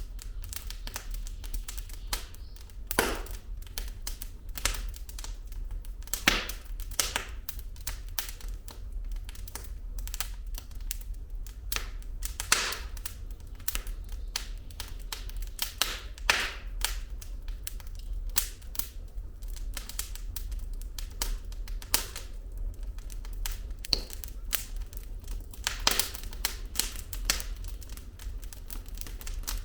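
Firewood burning in a fireplace, crackling with irregular sharp pops and snaps over a steady low rumble.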